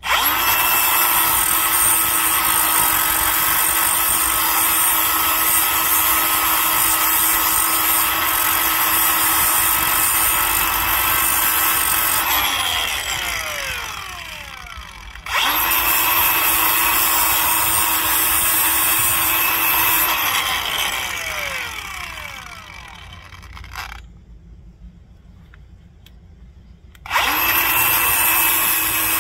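Angle grinder with a Tiger Paw disc grinding down an inner hub sleeve, with a steady motor whine. It runs three times: it winds down with a falling whine about 12 seconds in, restarts at once, winds down again, and after a few seconds' pause starts again near the end.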